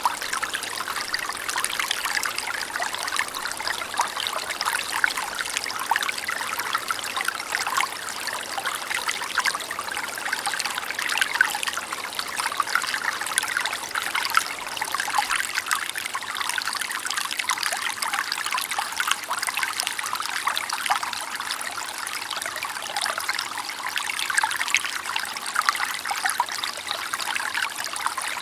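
A clear, shallow mountain river running over stones, a steady babbling with many small splashes and gurgles.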